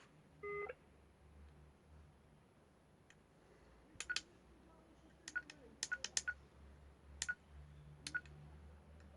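Quasar ARM metal detector's control unit: a short response tone about half a second in, then from about four seconds on a string of button presses, each a sharp click with a short beep, several in quick pairs, as its settings are stepped through.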